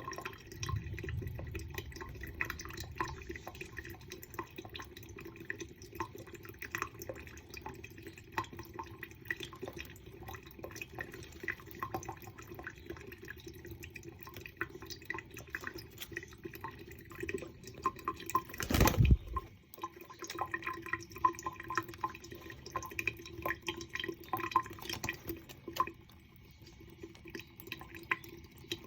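Water running from a tap, with many small drips and splashes and a brief louder rush about nineteen seconds in.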